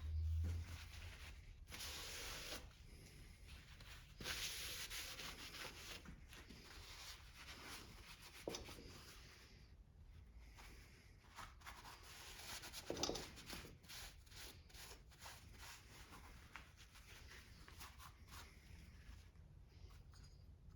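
Faint rubbing and scraping from hands and tools working on small-engine parts, with a low thud at the start, a sharp click and a brief clatter.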